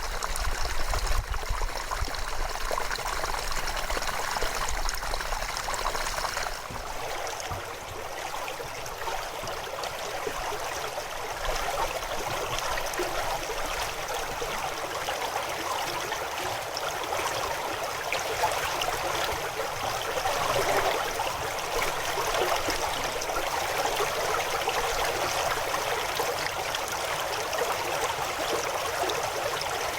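River water rushing and gurgling steadily over rocks. A low rumble underneath fades about six seconds in.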